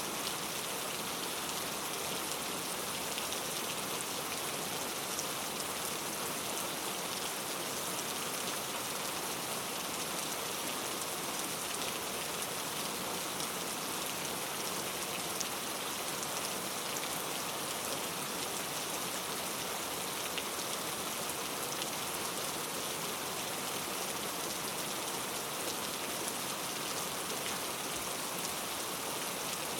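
Steady rainfall on forest foliage, an even hiss of many small drop ticks with no change in strength.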